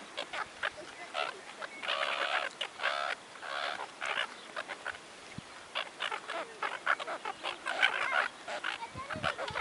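Several gulls calling in quick, overlapping short calls, bunched into bursts about two, three and a half, six and eight seconds in, with quick clicks between them.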